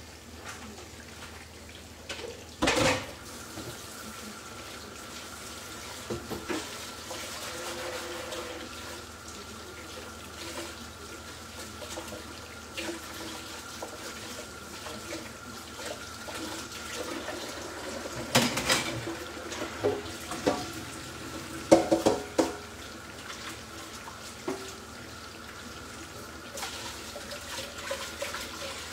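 Aubergine slices frying in plenty of hot oil with a steady sizzle. Dishes and pans clatter several times, loudest about three seconds in and again around eighteen and twenty-two seconds.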